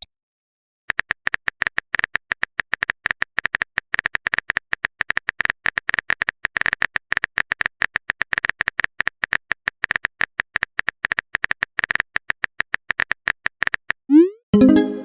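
Rapid, irregular typing clicks, a keyboard sound effect for a message being typed out. Near the end comes a short rising swoop and a loud electronic tone, a message-sent sound.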